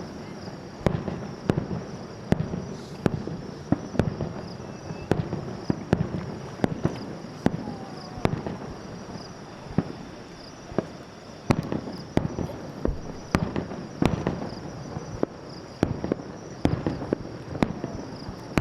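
Aerial fireworks going off in quick succession: a rapid, irregular series of sharp bangs, roughly one to three a second, over a continuous rumble.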